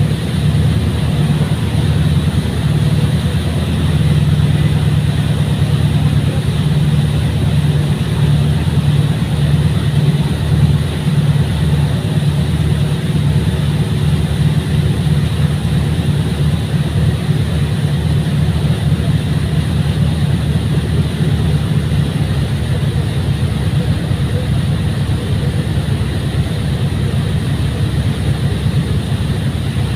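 Fast ferry's engines running at a steady cruising drone, a deep pulsing hum with a constant rush of noise over it.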